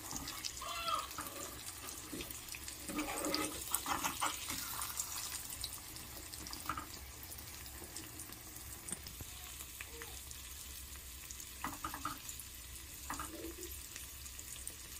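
Eggs and spring onion greens frying in oil in a pan, a steady sizzle, with a metal spoon scraping and turning them in several short bouts: at the start, a few seconds in, and again near the end.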